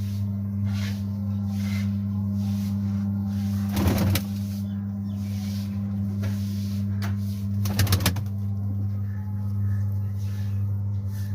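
Domestic pigeons cooing over a steady low hum, with two brief louder bursts about four and eight seconds in.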